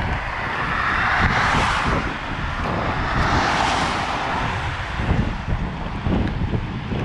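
Wind buffeting the camera microphone during a bike ride, a flickering low rumble, with a rushing hiss that swells twice.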